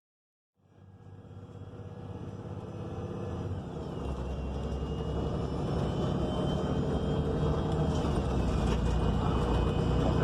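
Sound fades in on the steady rumble of a 2019 ENC Axess transit bus with a Cummins Westport L9N natural-gas engine, heard from inside while riding, with a high whine that drops in pitch twice.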